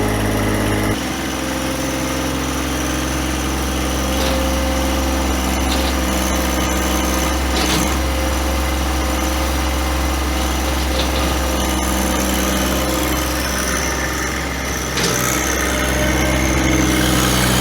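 Engine running steadily. Its note shifts down about a second in, then dips briefly near the end and picks back up.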